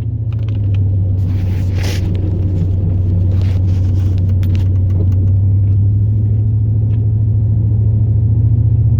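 The 8.1L big-block V8 of a 2002 Chevrolet Silverado plow truck running with a steady low drone, heard from inside the cab while driving. A brief hiss comes about two seconds in.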